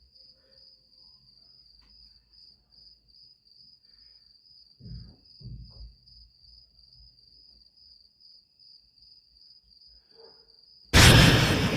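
Crickets chirping steadily in a high, even pulse, a few chirps a second, with two soft low thumps about five seconds in. Near the end a sudden loud burst of noise cuts in and the chirping stops.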